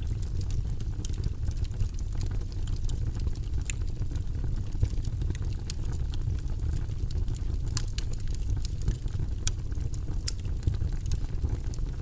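Wood fire burning in a fireplace: a low steady rumble of flames with scattered sharp crackles and pops throughout, a few louder ones standing out.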